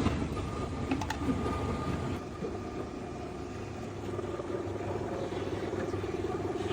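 Factory machinery running: a steady mechanical hum with a couple of sharp clicks about a second in, then a buzzing drone that grows stronger from about four seconds in.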